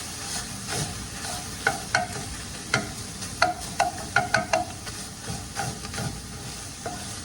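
Meat sizzling as it fries in a pan, with a utensil clicking and scraping against the pan as it is stirred, the clicks coming in a quick run through the middle.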